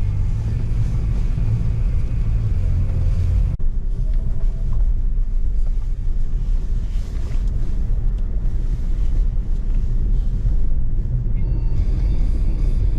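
Nissan Pathfinder driving through a snowstorm: a steady low rumble of engine, tyres and wind, broken by a sudden brief dip about three and a half seconds in.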